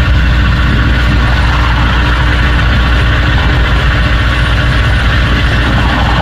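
AgustaWestland AW139 twin-turboshaft helicopter running: a loud, steady drone of rotors and engines with a deep low throb and a held tone above it.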